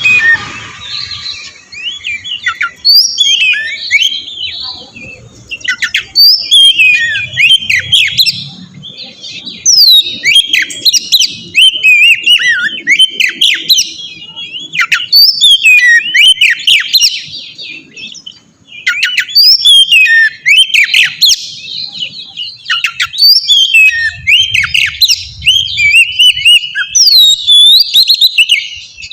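Oriental magpie-robin (kacer) singing: a long run of varied whistles, sweeping chirps and quick harsh notes, in phrases broken by brief pauses. This is the male's loud territorial song, used as a lure to make other magpie-robins answer.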